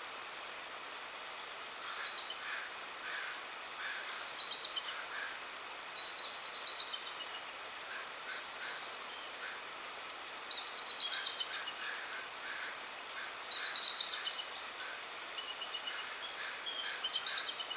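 A songbird singing short phrases of high, falling notes, repeated every two to three seconds, over a steady hiss.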